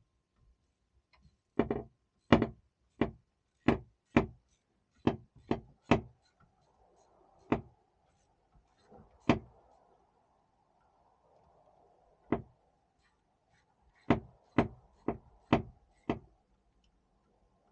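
Repeated sharp knocks on the exhaust manifold bolts of a 4.3 L MerCruiser engine, about sixteen of them in uneven runs of two to six, with pauses of a second or more between runs.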